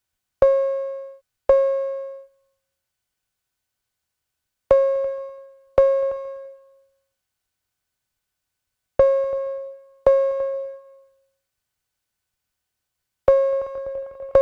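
Simple Eurorack synthesizer note, one pitch, plucked in pairs about every four seconds through the Strymon StarLab reverb in Sparse mode. The first pair dies away quickly; later pairs trail longer, speckled reverb tails, and the last note leaves a long, grainy wash.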